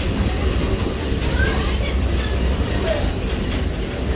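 Passenger excursion train running along the track, heard from aboard: a steady low rumble of wheels on rail.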